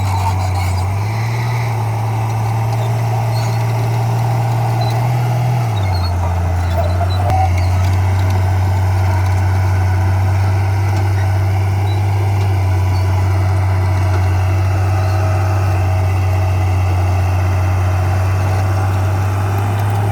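Heavy diesel engine of earthmoving machinery running steadily with a deep, continuous drone, its pitch rising slightly about a second in and dropping back about six seconds in.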